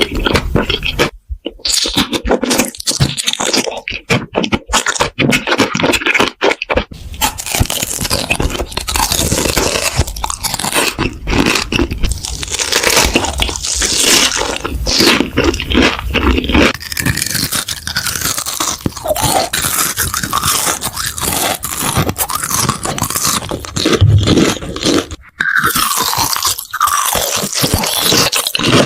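Close-miked chewing of crunchy food: dense, loud crackling crunches, bite after bite, with a few short pauses.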